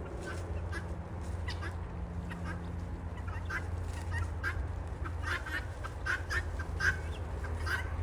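A flock of guinea fowl calling: short, harsh, scattered calls from many birds at once, several a second, over a low steady rumble.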